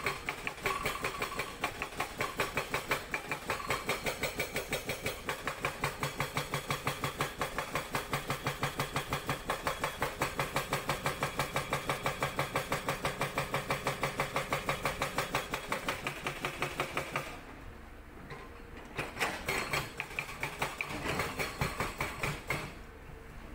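Sangdo SD220 hydraulic breaker on an excavator, hammering rock with rapid, even blows, several a second. It stops about seventeen seconds in, followed by a few short bursts of hammering near the end.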